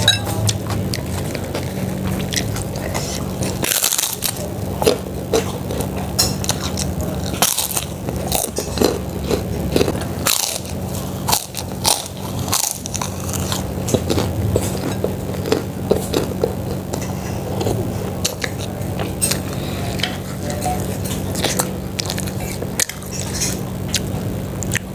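Close-up eating sounds: repeated biting and chewing with irregular crunches and crackles, over a steady low hum.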